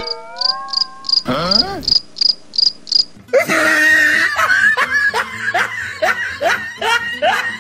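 Cricket chirping sound effect, about three short high chirps a second, for the first three seconds, with brief sliding cartoon voice sounds over it. From about three seconds in, a cartoon voice laughs in quick repeated bursts.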